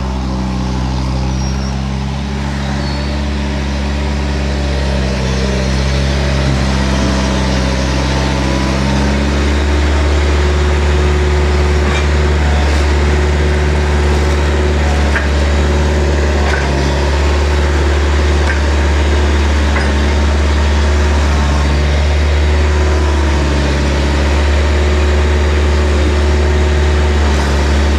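Skid steer engine running steadily under work, its note changing about a third of the way in.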